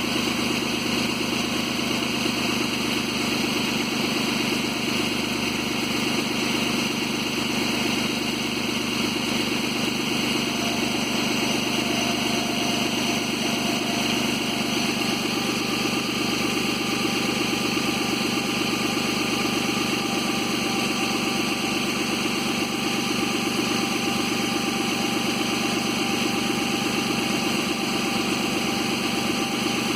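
Suzuki Grand Vitara 2.7 V6 engine idling steadily, recorded for the extraneous noises the owner is chasing; a faint thin whine comes in about ten seconds in and holds.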